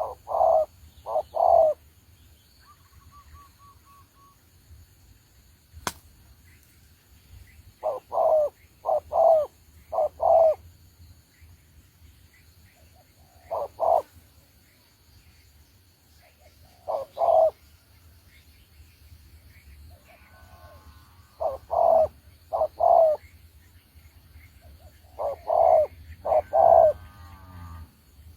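Spotted dove cooing: short phrases of two to four deep coo notes, repeated every few seconds.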